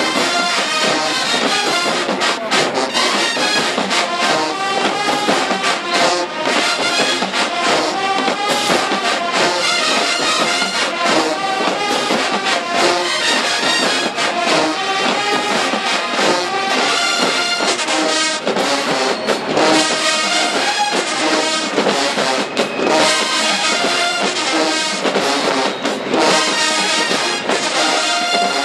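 Marching band brass section playing loudly, trombones and trumpets over drums.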